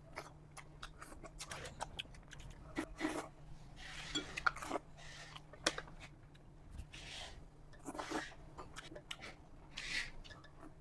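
Close-miked eating sounds of someone eating rice with crab omelette: soft chewing and mouth noises, with scattered short clicks.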